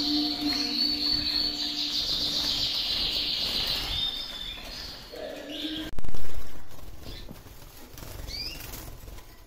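Canary singing fast rolling trills for about the first five seconds, then a sudden loud rustling thump about six seconds in that fades quickly, followed by a few short chirps near the end.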